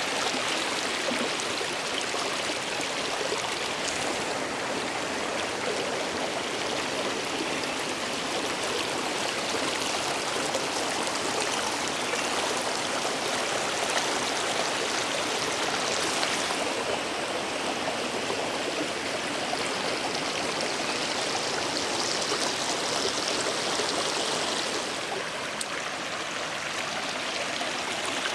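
Water of a natural waterfall and its stream running in a steady, even rush, with a higher hiss added for several seconds past the middle.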